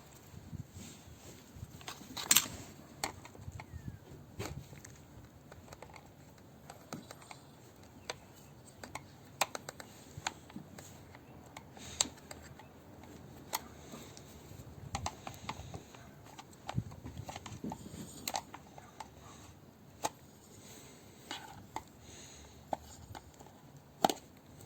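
Scattered clicks and light taps of small metal and plastic parts being handled while a car blower motor is reassembled, with a sharper knock about two seconds in and another near the end.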